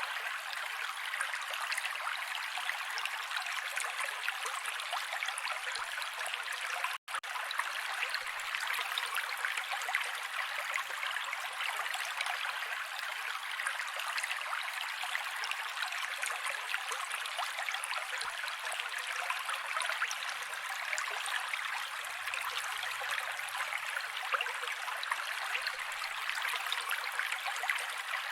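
Mountain creek water running and babbling over rocks, a steady rushing wash with no low rumble. It drops out for a split second about seven seconds in.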